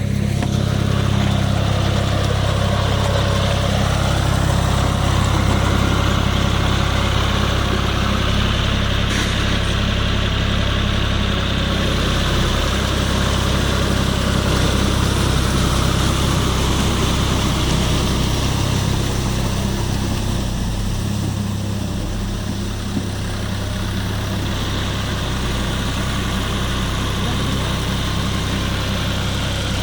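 John Deere tractor's diesel engine running steadily while puddling a wet field, its low note shifting slightly about two-thirds of the way through.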